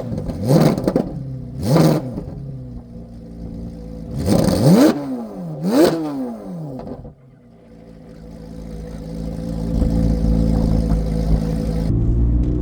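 Flat-plane-crank 5.5-litre V8 of a 2024 Corvette C8 Z06, catalytic converters deleted and exhaust valves open, blipped sharply several times with the revs shooting up and falling back, including a quick double blip. After the blips it settles to a steady running note that grows louder over the last few seconds.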